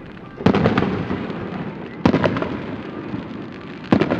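Fireworks display: three loud booms about a second and a half apart, each followed by a run of crackles and a low rumble that dies away.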